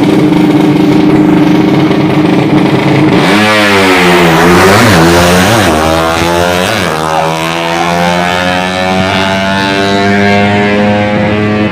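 Drag-racing motorcycle engine running at high revs. About three seconds in it revs up sharply, then dips and recovers quickly several times before holding steady again.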